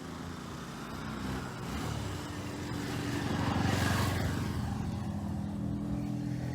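A motor vehicle passes close by, its engine growing louder to a peak about four seconds in and then easing off slightly.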